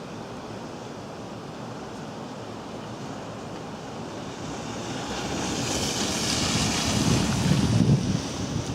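Outdoor wind noise on the microphone, a steady rushing that grows louder about halfway through and turns into irregular low buffeting gusts near the end.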